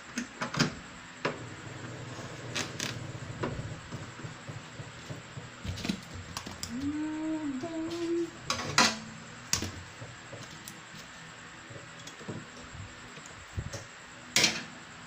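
Scattered clicks and knocks of parts and tools being handled while a microwave oven is reassembled, the sharpest about nine and fourteen seconds in, with a short wavering tone a little past the middle.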